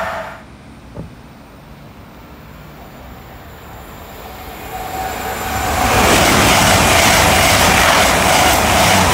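An InterCity 125 High Speed Train approaching and passing close at speed: a rush of wheel and air noise that swells over about two seconds and then stays loud as the coaches go by. Before that there is a quieter stretch with a single click about a second in, after the loud sound of an earlier train cuts off suddenly.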